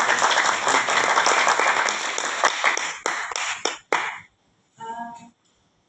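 Small audience applauding, many hands clapping quickly together, then thinning out and stopping about four seconds in.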